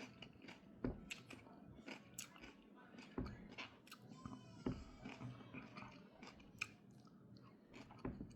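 A person chewing and biting food close to the microphone, with irregular small crunches and clicks.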